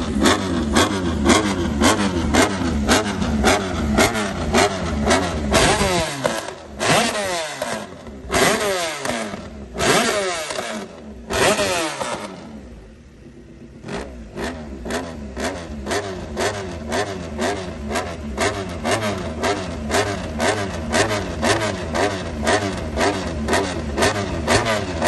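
Honda MotoGP racing motorcycle's V4 engine being revved hard while stationary. It blips the throttle rapidly, about two to three times a second, with several longer revs in the middle that fall away in pitch. About halfway through it drops briefly toward idle, then the rapid blipping starts again. Very loud.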